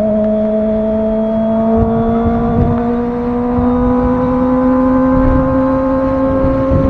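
Kawasaki ZX-25R's 249 cc inline-four running through a Villain R11 aftermarket exhaust, holding high revs with its pitch slowly rising.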